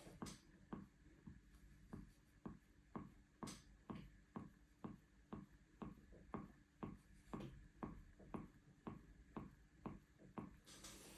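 Faint, evenly spaced knocks, a little over two a second, from rhythmic pressure massage on the quadratus lumborum muscle of the lower back: the knocking and crunching the session produces.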